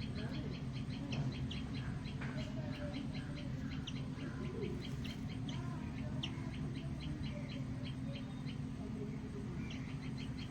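A small bird calls a fast, even series of short high chips, about five a second, with fainter lower calls now and then, over a steady low hum.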